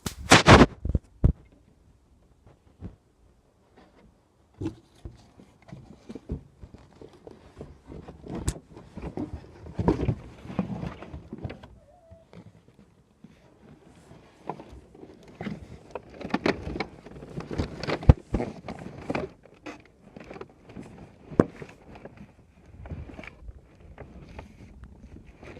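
Irregular knocks, bumps and rustling handling noises. The loudest cluster comes in the first second, with further strong knocks around ten and eighteen seconds in.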